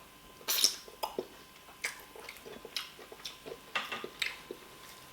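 Close-up wet eating sounds: squishy chewing and mouth smacks of fufu with soup, a string of short sounds about every half second, the loudest about half a second in.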